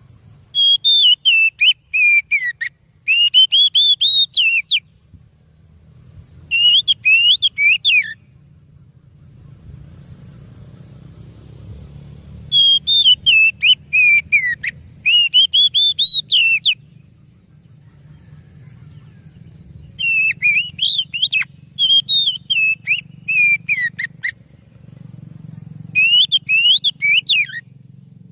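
Oriental magpie-robin (kacer) singing: about eight loud phrases of fast, rising and falling whistled notes, each a second or two long, with pauses between them. A steady low hum runs underneath.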